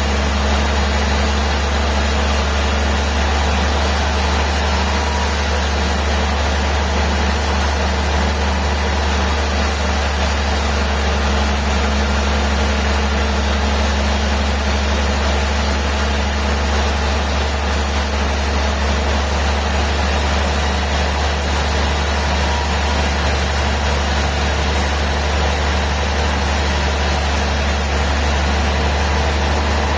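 A heavy engine running steadily at a constant speed with a deep, even drone and no change in pitch or load.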